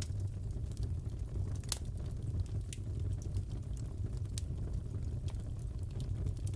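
Crackling fireplace: a steady low rush of burning wood with sparse sharp crackles and pops, the loudest pop a little under two seconds in.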